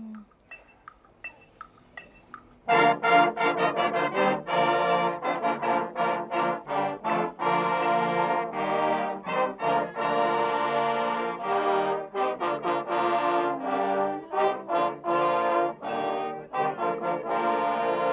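High school marching band playing, led by its brass: trombones and trumpets. The music breaks off for a moment with only a few faint clicks, then the full band comes back in about three seconds in with short, punchy repeated notes.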